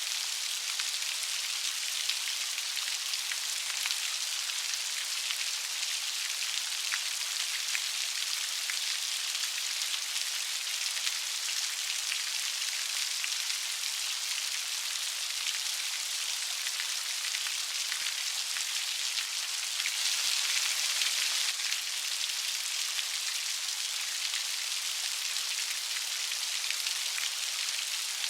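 Light rain falling steadily, an even hiss of fine drops with faint scattered patters, swelling slightly heavier for a second or so about twenty seconds in.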